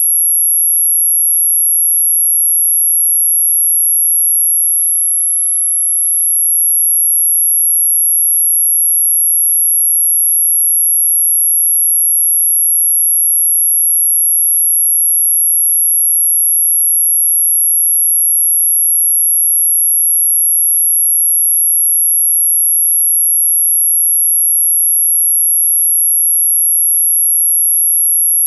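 A steady, unbroken electronic sine tone at about 11 kHz, very high-pitched and loud, played as an anti-mosquito repellent sound. It dips slightly in loudness about five seconds in.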